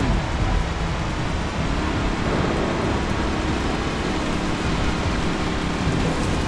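Storm soundscape: a steady rushing noise of wind and rain with a low rumble underneath. A low tone drops at the start and another rises about two seconds in and holds.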